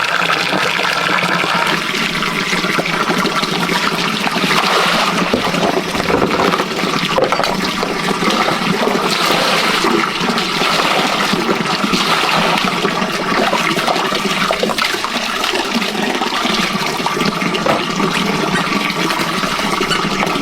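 Steady rush of running water, loud and unbroken.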